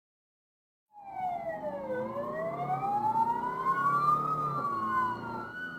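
Police car sirens wailing: after about a second of silence, two slow rising-and-falling tones sweep out of step with each other over a low steady hum.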